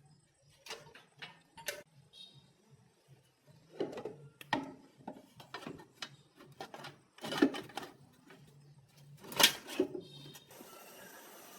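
Irregular knocks and clicks of parts being handled, some louder than others, with a steady hiss starting near the end.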